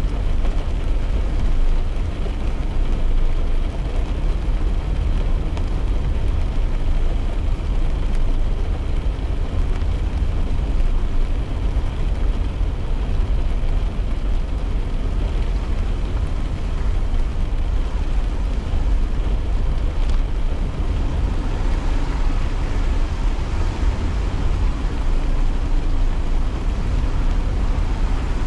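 Steady cabin rumble of a car driving in the rain: deep road and engine noise with tyre hiss from the wet road.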